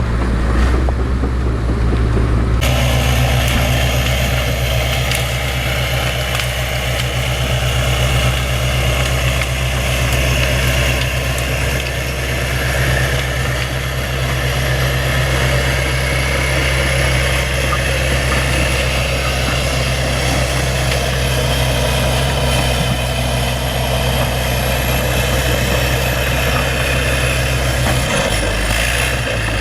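Bulldozer's diesel engine running steadily under load, a deep, even engine hum. The sound changes abruptly a few seconds in and again near the end.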